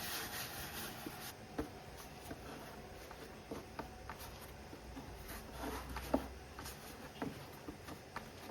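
Faint, scattered light taps and clicks of kitchen handling, with a steady hiss over the first second or so.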